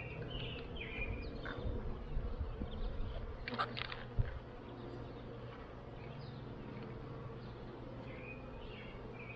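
Swarm of honeybees buzzing around an opened hive, a steady low hum. A couple of clicks and a knock sound about four seconds in as the hive parts are handled.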